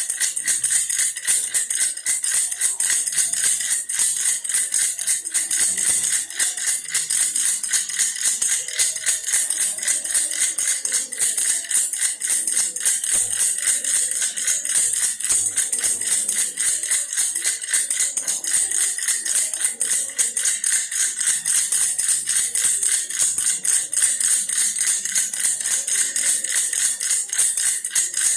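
Toy bear baby rattle shaken without pause, a fast, even rattling.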